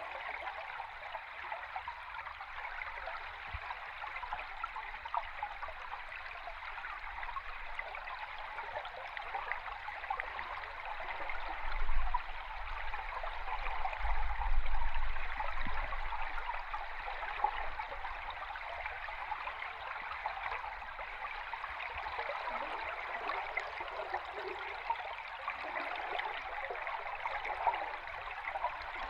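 River stream recorded under water: a steady rush of flowing water and bubbles. A low rumble swells about twelve seconds in and again a couple of seconds later, the loudest moments.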